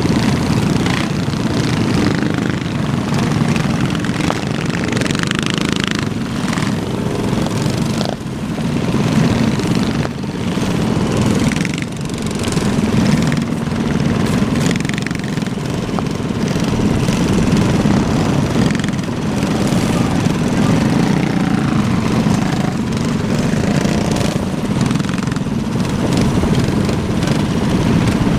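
Small minibike engines running, their pitch rising and falling as the throttle changes.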